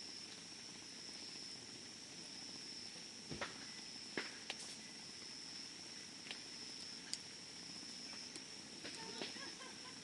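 Campfire burning: wood crackling, with scattered sharp pops over a faint steady hiss, the loudest pops coming about three and a half and four seconds in. A faint steady high-pitched whine runs underneath.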